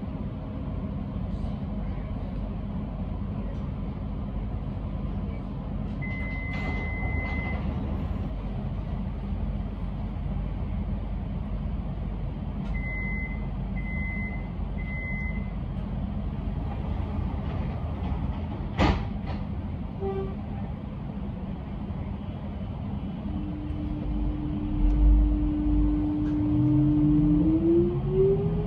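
X'Trapolis electric train standing at a platform with a steady low hum. It gives one long beep and later three short beeps of the same pitch, then a sharp knock. Near the end its traction motors start a steady whine that rises in pitch as the train pulls away.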